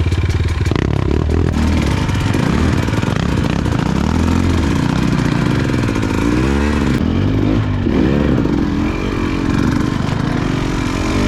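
Off-road motorcycle engine running under load, its revs repeatedly rising and falling as the throttle is worked over rough ground.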